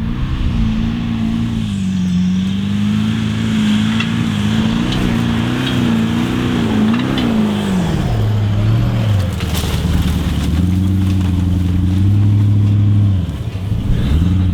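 A 4WD's engine revving hard under load in soft sand, its revs wavering up and down. The revs fall away about eight seconds in, climb and hold again a little later, then ease off near the end.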